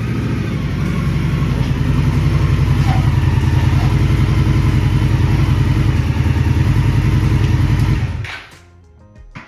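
2016 Indian Scout Sixty's V-twin engine running steadily at low revs with an even, low pulsing beat, then stopping abruptly about eight seconds in.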